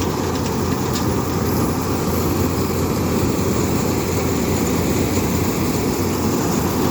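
Combine harvester running steadily while cutting paddy: a loud, even engine and machinery drone with a constant low hum.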